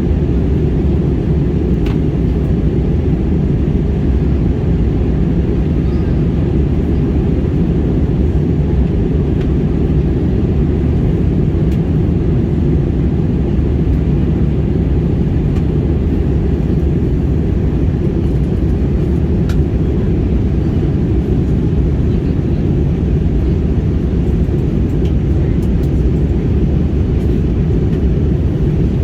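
Airliner cabin noise in flight: the steady, even low rush of the jet engines and airflow as heard from inside the passenger cabin.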